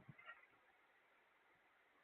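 Near silence: room tone, with a few faint, brief soft sounds in the first half second.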